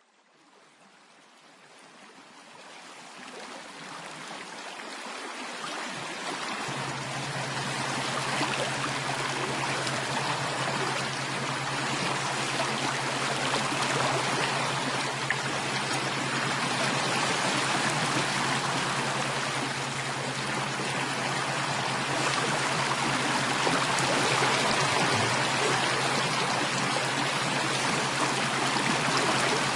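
Steady sound of running water, fading in from silence over the first several seconds and then holding even. A low steady hum joins about seven seconds in.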